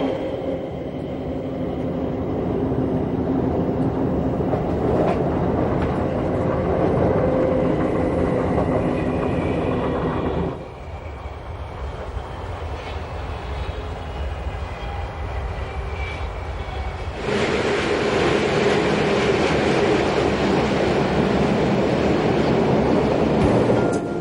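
Bodensee-Toggenburg Railway train running along the track, its wheels clattering over the rails with a steady rumble and faint hum. The sound drops suddenly about ten seconds in and comes back louder and brighter a few seconds later.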